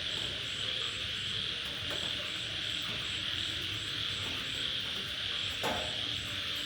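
Crickets chirping in a steady, regular pulse about three times a second over a continuous high hiss, with a short falling call about two-thirds of the way through.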